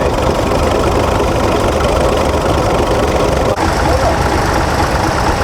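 Engine running steadily with a low rumble, with people talking in the background.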